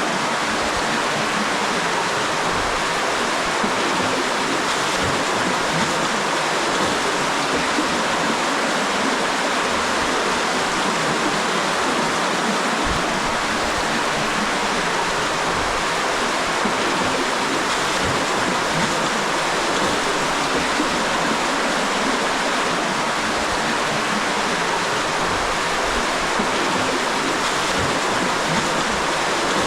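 Spring-fed cave stream rushing steadily, running high after heavy rain.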